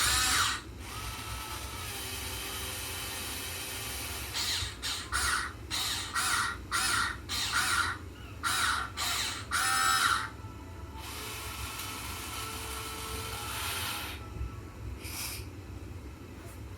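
Electric motors of a Huina 1580 all-metal RC excavator whirring, steady at first, then in a run of about nine short, loud bursts of half a second each as the controls are jabbed, then steady again.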